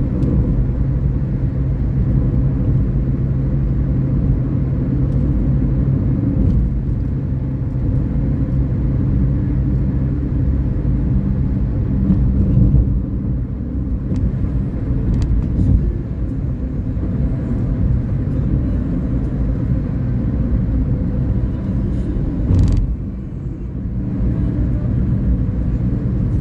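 Car running on the road: a steady low engine and road rumble, with a sharp knock near the end, after which it briefly goes a little quieter.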